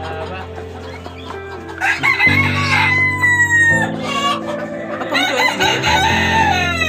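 Rooster crowing twice, each crow a long drawn-out call, with steady background music underneath.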